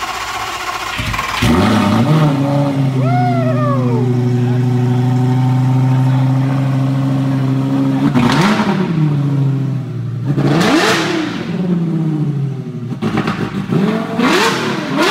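Straight-piped Lamborghini Gallardo V10 firing up and settling into a loud, steady idle. It is then blipped three times in quick rises and falls of engine speed in the second half.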